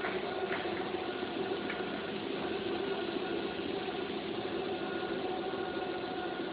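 PVC/WPC profile extrusion line running: a steady machine hum with several constant tones, and a few faint clicks in the first two seconds.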